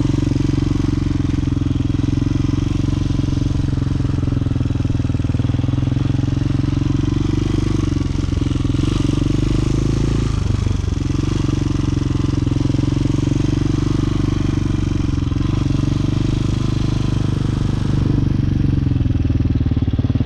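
A 250cc motorcycle engine running steadily at low revs during slow-speed maneuvering, the pitch shifting only slightly.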